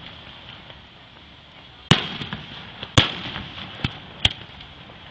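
Fireworks bursting overhead: four sharp bangs in the second half, the first two followed by a brief crackle of smaller pops.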